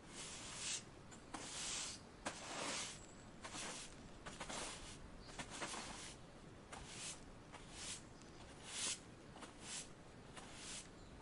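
Dry autumn leaves rustling in a string of short, irregular crackly bursts, about one a second.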